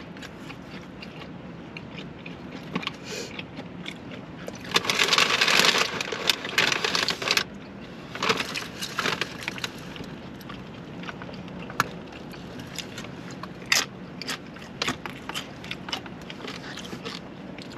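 Eating and handling of takeout food packaging: a loud crinkling of a wrapper for about two and a half seconds about five seconds in, another shorter bout a little later, and scattered small clicks and scrapes over a steady low hum.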